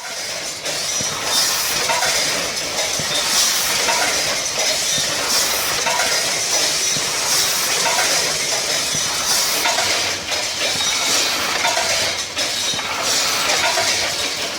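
Automatic chewing gum filling and packaging machine running, a steady mechanical clatter with clinks and hiss. A brighter surge repeats about every two seconds with each machine cycle.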